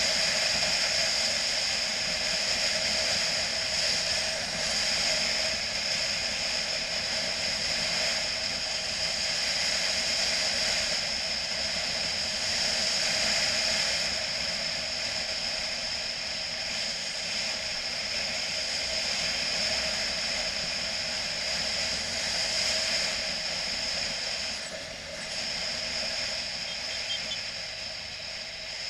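Steady wind and road noise from a motorcycle being ridden at speed, with the engine's running sound under a constant rush, dipping slightly near the end.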